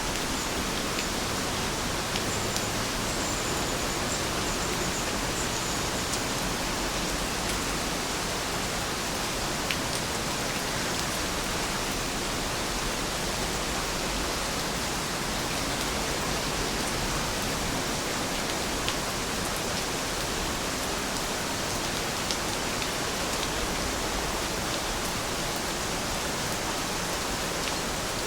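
Steady rain falling, an even hiss with the occasional single drop ticking sharper above it.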